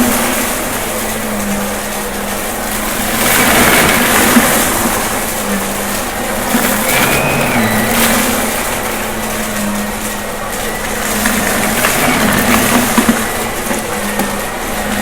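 Shark vacuum cleaner running steadily, its noise swelling and easing every few seconds as it is pushed back and forth, with small crackles of debris being sucked up during a mess test.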